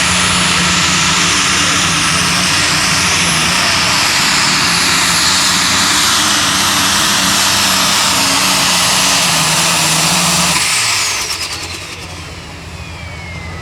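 Light super stock pulling tractor's turbocharged engine at full throttle during a pull, loud, with a high steady turbo whine over it. About eleven seconds in, the throttle comes off, the engine drops away, and the turbo whine falls steadily in pitch as it spools down.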